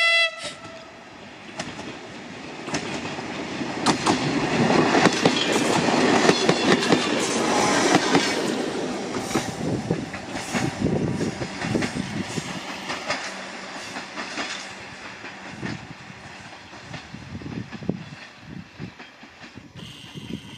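Diesel railcar 57-0525-7 sounds its horn briefly at the start, then approaches and passes, its wheels clicking over the rail joints. The sound fades away as it goes off down the line.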